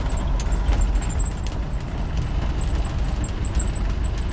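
Land Rover 90's 300Tdi four-cylinder turbo diesel running steadily on the move, heard from inside the soft-top cab as a continuous low rumble.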